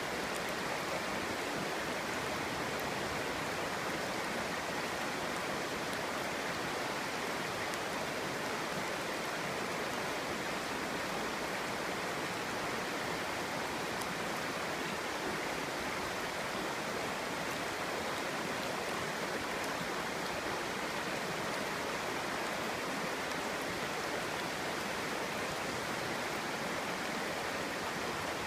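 Clear stream flowing and babbling over stones in a steady, even rush of water.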